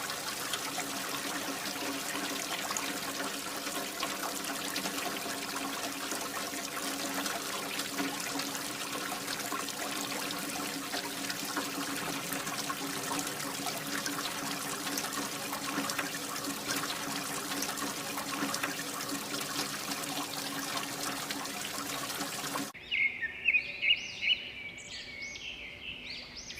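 Water pouring and splashing steadily, as from a small pump's outlet, with a faint steady hum underneath. About 23 seconds in it cuts off abruptly and birds chirp.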